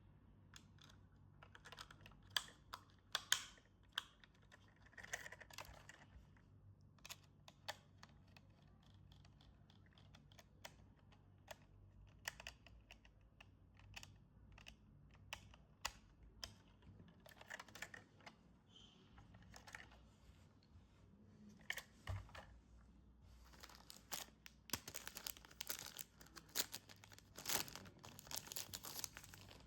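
Scattered sharp clicks and taps of hard plastic toy parts and packaging being handled. Near the end, plastic wrapping crinkles and tears as it is opened.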